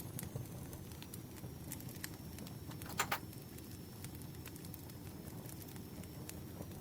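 Campfire crackling: a steady low rumble of burning with scattered sharp pops and snaps. About three seconds in, one louder, brief crisp sound, likely paper being handled.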